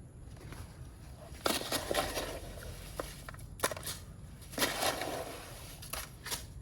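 Gritty scraping and crunching as wet concrete is worked around a column base, with a few sharp knocks.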